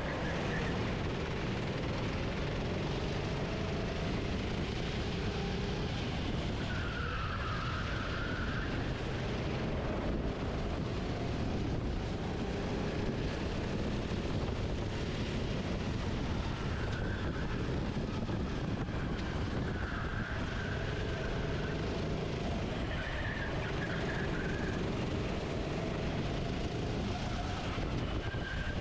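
Onboard sound of a racing kart's engine rising and falling in pitch as it accelerates and brakes through corners, under heavy wind and vibration rumble. A brief higher-pitched whine comes in several times, about every few seconds.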